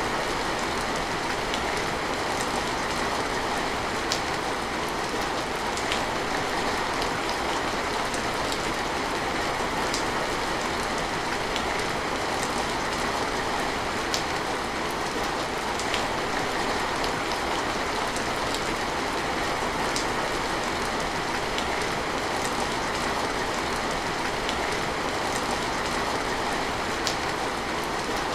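Steady rain falling, with scattered sharper drip ticks on a hard surface.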